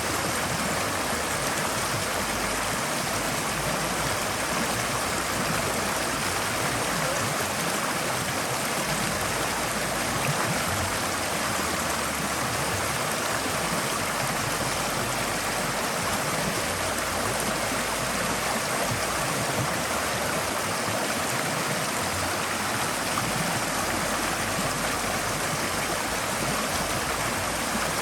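Forest stream flowing over rocks: a steady, even rush of water that never pauses or changes.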